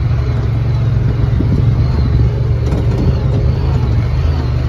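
Steady, loud low engine drone with a deep hum that holds even throughout.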